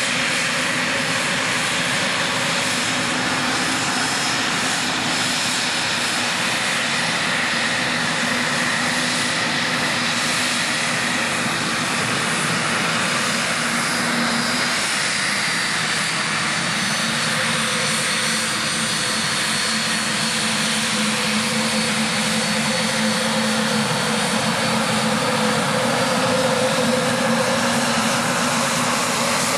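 Saab 105's twin Turbomeca Aubisque turbofan engines running steadily: an even jet rush with a faint whine on top, its pitch shifting slightly now and then.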